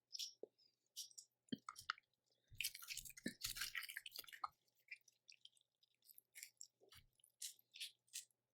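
Someone eating Cajun boiled seafood: wet chewing and squishing in short, irregular bits, busiest from about two and a half to four and a half seconds in.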